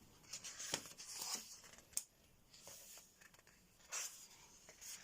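Thick paper pages of a colouring book being turned: faint rustling with a few crisp flicks, the sharpest about one, two and four seconds in.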